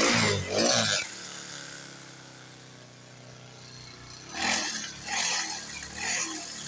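Small dirt bike engine revved twice in the first second, then idling steadily, with more revs from about four seconds in.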